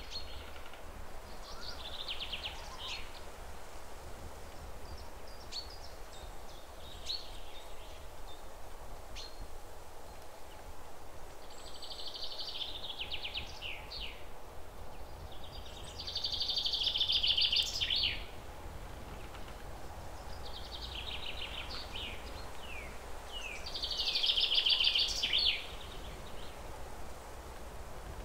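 A small bird singing: short phrases of rapid trilled and chirping notes come every few seconds, the loudest two a little past halfway and near the end, over a steady low hum.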